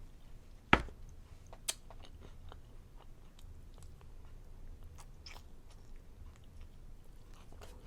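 Close-up chewing of sweet corn kernels, with faint wet mouth clicks. A sharp click comes a little under a second in, and a smaller one about a second later.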